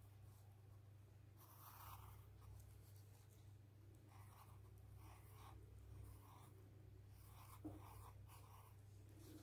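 Faint scratching of a drawing tool on paper: short strokes at irregular intervals, over a steady low hum.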